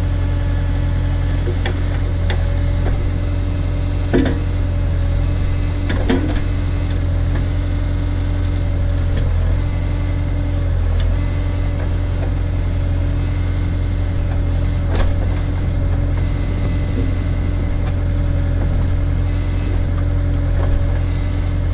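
Case/Davis D100 tractor backhoe's engine running steadily, with a few sharp knocks about four, six and fifteen seconds in.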